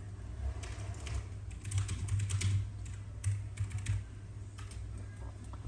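Light, irregular clicks and taps from a Zippo lighter being handled and turned over, over a steady low hum.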